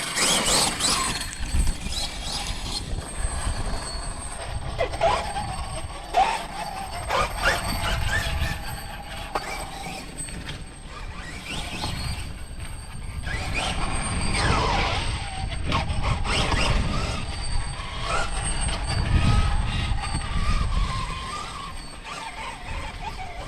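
A Losi 5ive TE 3.0 1/5-scale electric RC truck driving. Its motor and drivetrain whine rises and falls with the throttle, over a low rumble from the running gear.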